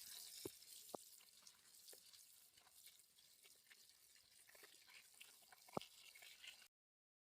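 Near silence: a faint hiss with a few light clicks, cutting to total silence near the end.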